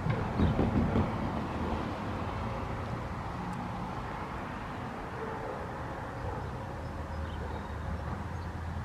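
A train running by with a steady rumble, louder for a moment with a few knocks in the first second.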